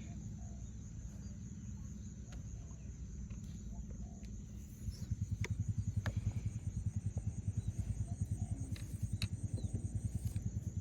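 A low engine drone that turns into a rapid, regular pulsing and grows louder about five seconds in, with a few faint short high ticks or chirps over it.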